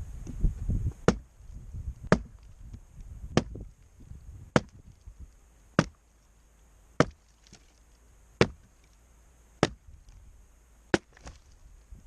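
Axe chopping dead pine firewood: about ten sharp strokes, one a little over a second apart, after some low rustling and thumping in the first second.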